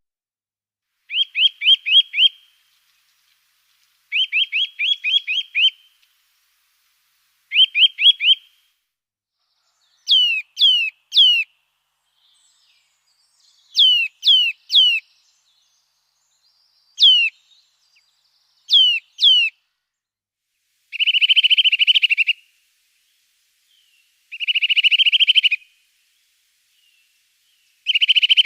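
A songbird singing in short repeated phrases with pauses between them: first quick runs of rising whistles, then clear downslurred whistles in groups of three or four, and near the end fast buzzy trills.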